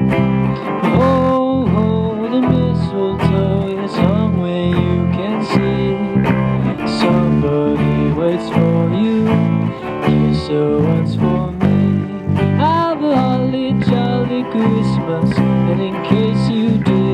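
Instrumental break played by a rock trio: a guitar lead line with bent notes over bass guitar and a steady drum beat.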